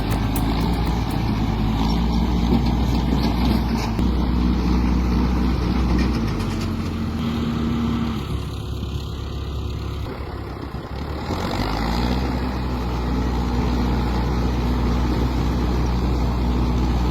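Heavy truck engine running steadily, dropping away for a few seconds past the middle, then revving back up and holding.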